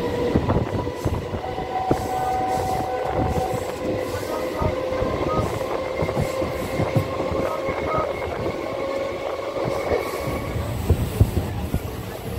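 Electric suburban local train (ICF-built EMU) running, heard from on board: a steady rumble with irregular clicks of the wheels over the rails and a thin whine holding a few steady pitches.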